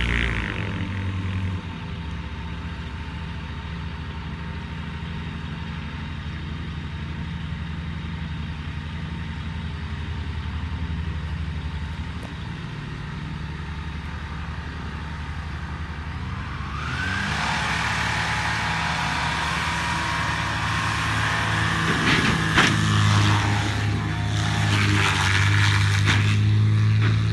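An engine running steadily with a low hum. About seventeen seconds in it grows louder, with a rising whine and scattered sharp knocks.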